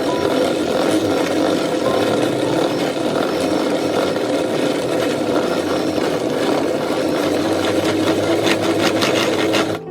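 Small electric motor of a kitchen appliance running steadily, with a rapid run of clicks shortly before it cuts off suddenly at the end.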